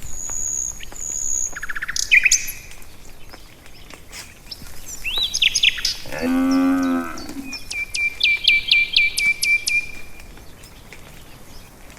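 A village cow moos once, about six seconds in, over birdsong: a thin high whistle at first, scattered chirps, and a run of about eight quick repeated notes a little later.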